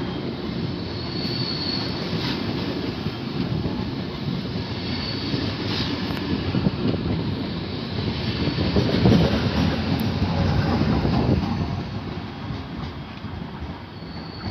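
A train rolling through the station, a steady rumble of wheels on rail with a few brief high-pitched wheel squeals. It swells to its loudest about two-thirds of the way through, then fades as it moves away.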